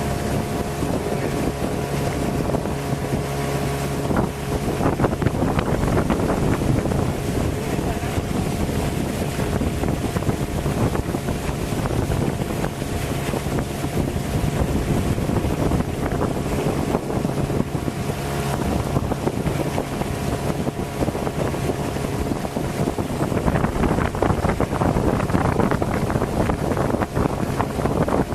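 Boat motor running steadily with a constant hum, under a heavy rush of wind on the microphone.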